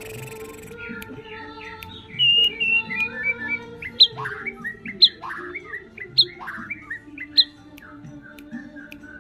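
White-rumped shama song: a run of varied whistled phrases and quick down-sweeping chattery notes, with a sharp rising whistle about once a second in the middle stretch. A steady musical drone runs underneath.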